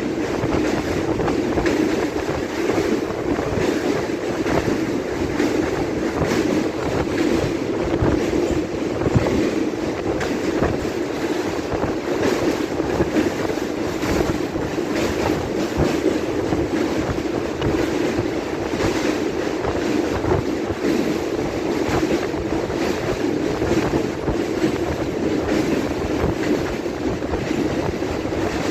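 Train running steadily at speed, its wheels clattering over the rail joints in a continuous rumble, with wind rushing past.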